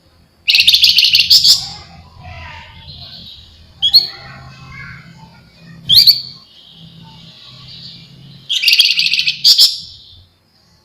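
Javan fulvetta (flamboyan) singing: two dense, rapid, buzzy trills of about a second and a half each, one near the start and one near the end, with two sharp single notes between them. A faint low hum runs underneath.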